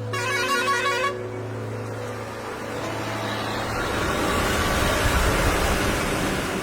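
A vehicle horn sounds briefly, a warbling toot about a second long. Road traffic noise follows, swelling as a vehicle goes by and loudest about five seconds in.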